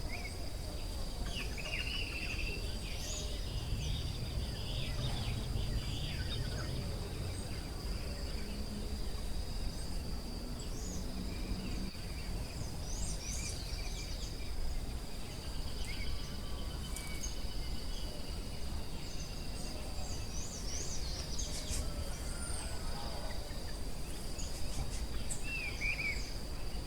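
Forest ambience: a steady high-pitched insect drone, like crickets or cicadas, with scattered short bird chirps and calls over a low background rumble.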